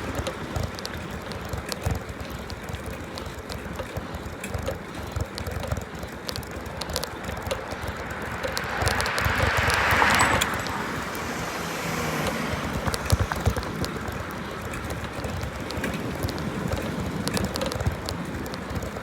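Bicycle ride heard from the bike: wind buffeting the microphone over tyre and road rumble, with scattered small rattles and clicks. A rushing noise swells to its loudest about ten seconds in, then fades.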